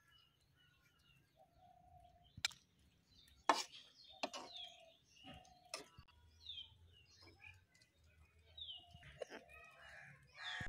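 Small birds chirping, repeated short notes that fall in pitch, fairly quiet. A few sharp clicks or knocks stand out louder, about two and a half, three and a half, four and six seconds in.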